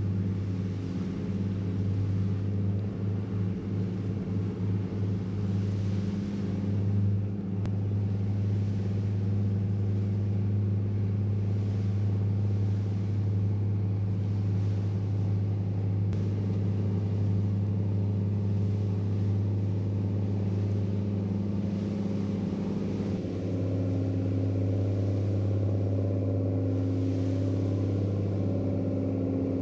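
Ship's engine running steadily underway: a constant low hum with a second, higher hum over it. A further, slightly higher tone joins about three-quarters of the way through.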